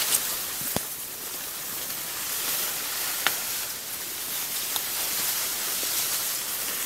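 Steady outdoor hiss with a few short sharp clicks.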